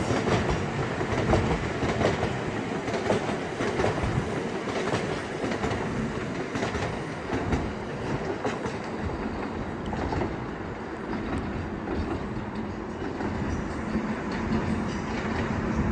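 Freight train wagons rolling past at steady speed: a continuous rumble of steel wheels on the rails with repeated clicks of the wheels over rail joints.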